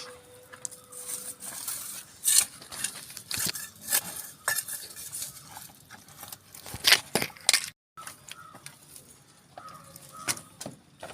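Irregular clinks, knocks and scrapes of hard objects being handled, with two louder knocks about 2 and 7 seconds in.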